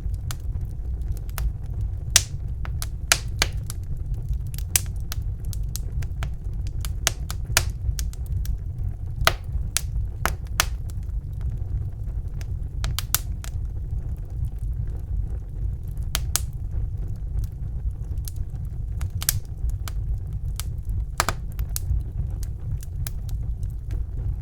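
Wood fire crackling in a fireplace: irregular sharp pops and snaps, some in quick clusters, over a steady low rumble of the burning fire.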